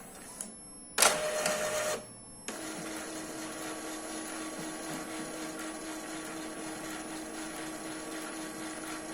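Epson L3150 ink-tank printer mechanism: a click, then a loud whirring burst lasting about a second, then from about two and a half seconds a steady motor hum with a low tone as the printer runs its print-head cleaning cycle.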